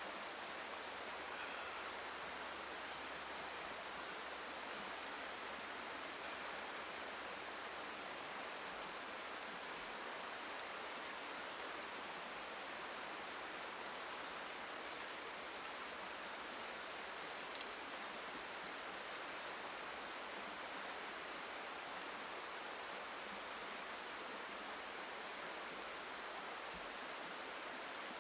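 Steady rushing of a river, with a few faint clicks around the middle.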